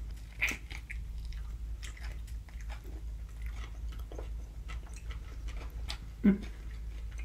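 Close-up chewing of burgers: many short, irregular wet mouth clicks and smacks. One brief voiced sound comes about six seconds in.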